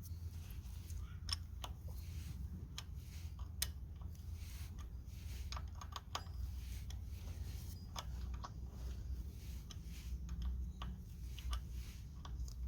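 Irregular small clicks and taps of metal parts being handled as a stiff motorcycle brake line is worked loose from the front fender, over a steady low hum.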